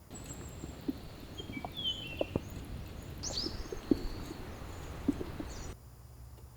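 Birds chirping in short high calls over a steady hiss, with scattered soft taps; it all cuts off suddenly near the end.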